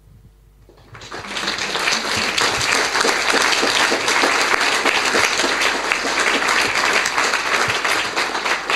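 Audience applauding a speaker at the end of a talk: the clapping starts about a second in, swells quickly and keeps up steadily.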